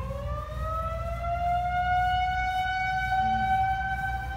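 Outdoor tornado warning siren winding up: its pitch climbs over the first couple of seconds, then holds a steady tone. This is the routine first-Saturday-of-the-month siren test.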